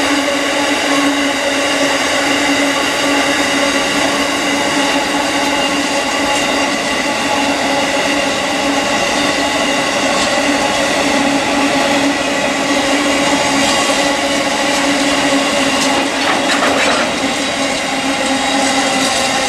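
Grain hopper wagons of a freight train rolling past, with a continuous rumble of wheels on rail over a steady droning tone. A brief clatter comes near the end.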